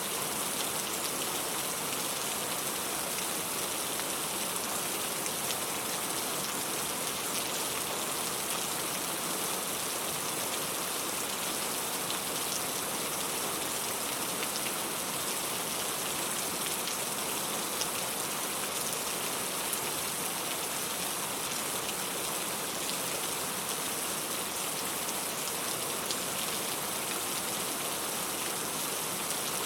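Steady rain falling: a continuous even hiss with faint sharper drop ticks scattered through it.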